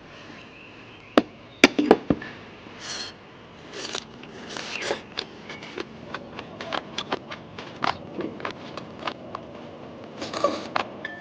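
Close-up eating sounds: a few sharp clicks about a second in, then a run of irregular crisp crunches and clicks of food being chewed.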